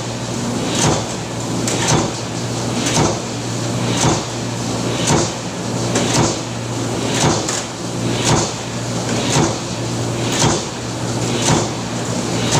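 Industrial press machine stamping in a steady cycle, a sharp impact about once a second, over a constant low machine hum.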